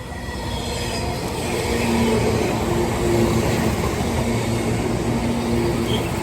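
JR 185 series electric multiple unit running past over a level crossing: wheel and rail noise builds over the first two seconds, stays loud through the middle of the pass and begins to ease near the end.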